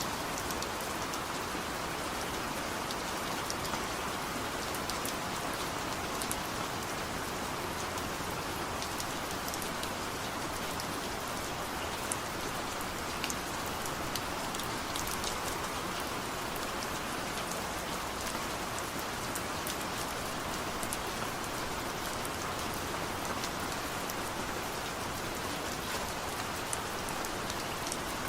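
Steady rain falling, an even hiss with scattered sharp drip ticks of individual drops.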